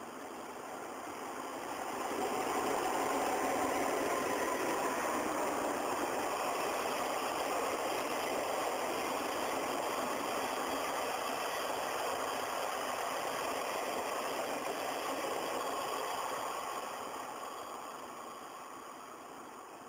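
A train's steady running noise that swells over about two seconds, holds, then fades away over the last few seconds, as a train moving past a station platform would.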